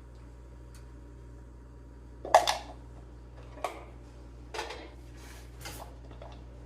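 Hand tools and small metal parts clinking and knocking while working on a small engine's carburetor: four sharp clinks, the first, about two seconds in, the loudest, over a steady low hum.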